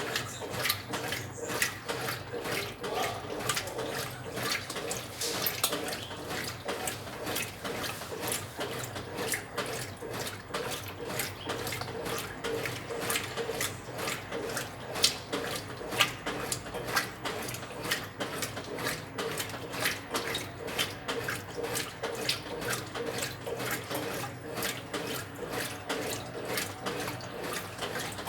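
Brastemp 9 kg washing machine with water splashing and running inside its tub, over a steady low machine hum.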